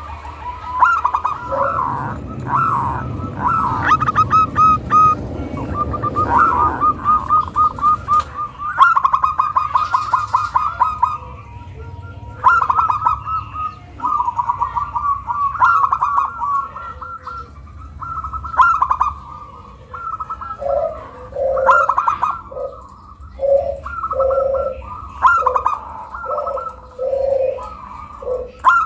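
Zebra dove (perkutut) cooing: rapid strings of high, trilled coo notes, joined in the second half by a lower coo repeated about once a second. It is a local perkutut's call used as a lure to prompt other doves to answer.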